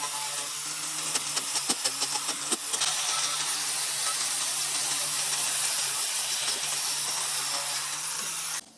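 A steady, loud hiss, with a run of sharp clicks about a second in, that cuts off suddenly near the end.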